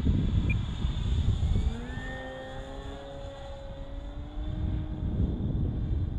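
Electric motor and propeller of an E-flite Carbon-Z Cessna 150 RC plane in flight, a humming tone that rises in pitch about two seconds in and then holds steady. Wind rumbles on the microphone for the first couple of seconds.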